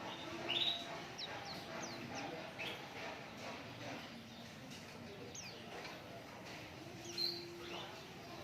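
White-eyes (pleci) calling: scattered short, high chirps and quick downward-sliding notes, with louder chirps about half a second in and again near the end.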